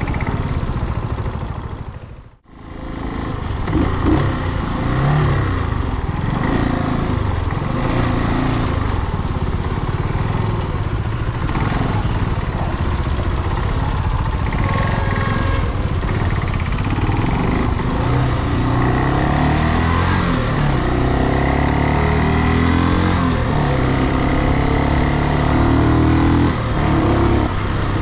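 Brixton Cromwell 250's single-cylinder engine running on the move, its pitch rising and falling with the throttle through the ride. The sound drops out briefly about two seconds in.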